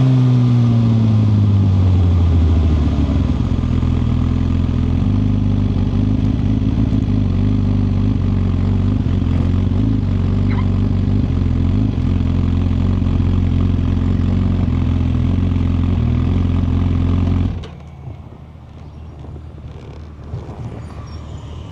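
2021 Suzuki GSX-R1000R's inline-four engine, its revs falling over the first few seconds and then idling steadily, before it stops abruptly near the end. A few faint clicks follow.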